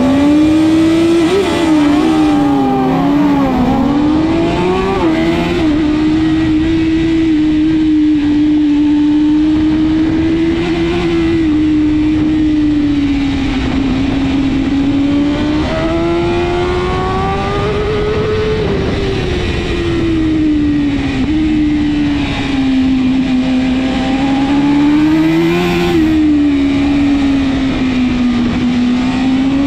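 BMW S1000RR superbike's inline-four engine at racing speed, its note rising and falling over several seconds as the bike goes through the corners, with a steady rush of noise under it. Another engine's note rises alongside it in the first few seconds and again about halfway through.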